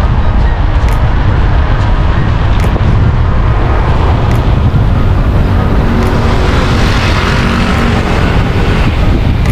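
Strong wind buffeting the microphone while riding along a busy road, with traffic noise; a vehicle swells past about six to eight seconds in.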